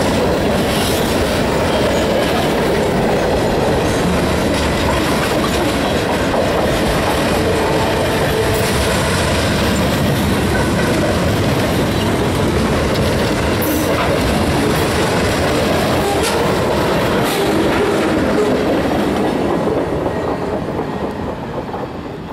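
Freight train's cars rolling past at close range: a steady rumble of wheels on rail with scattered clicks as the wheels cross rail joints, fading out near the end.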